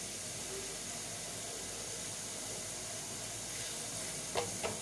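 Chicken kabab pieces frying in butter in a kadai, a steady sizzling hiss, with a couple of sharp utensil taps on the pan near the end.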